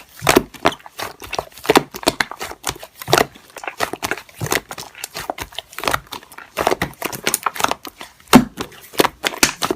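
Slime being squished and pressed by hand, giving irregular sticky clicks and crackling pops.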